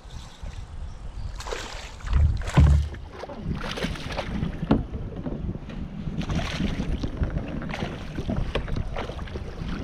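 Water splashing and sloshing at the side of a kayak in irregular bursts, with wind buffeting the microphone. The loudest low thumps come about two to three seconds in.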